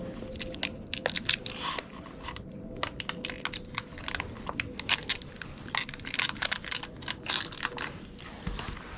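Crinkling and rustling of plastic being handled, with many quick irregular small clicks, over a faint steady hum.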